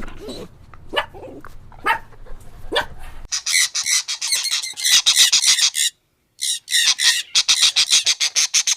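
A dog gives a few short yips. About three seconds in the sound switches to dense, rapid high-pitched chirping of many birds, which cuts out for a moment and then resumes.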